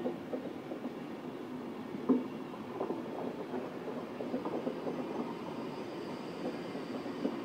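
A train rolling past with a steady rumble and irregular clattering knocks from its wheels on the track, one louder knock about two seconds in.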